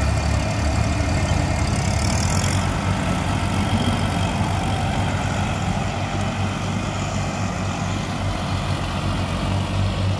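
Tractor's diesel engine running steadily at a low, even beat.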